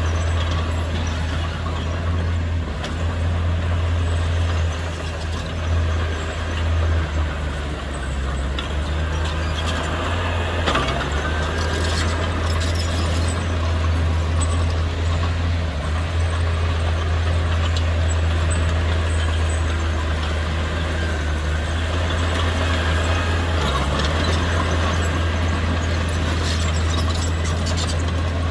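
Heavy earthmoving machine's engine running steadily with a deep low drone, with a few scattered knocks.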